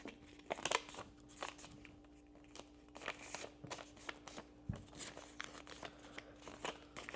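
A sheet of A4 paper being folded and handled, giving irregular short crinkles and crackles as it is creased, with a faint steady hum behind.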